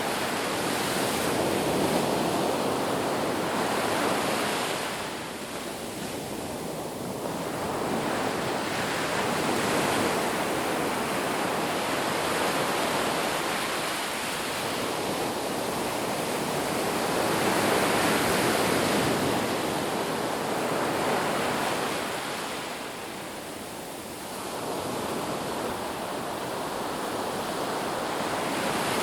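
Ocean surf washing onto a beach, a steady rush of breaking waves that swells and eases every several seconds, with some wind on the microphone.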